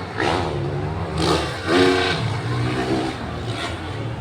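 Motocross dirt bike engines revving in short repeated bursts over a steady low engine hum.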